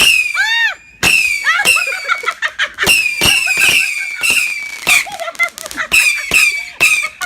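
A rapid barrage of whistling fireworks going off, about a dozen in quick succession. Each starts with a sharp crack and a shrill whistle that dips slightly in pitch, and the whistles often overlap.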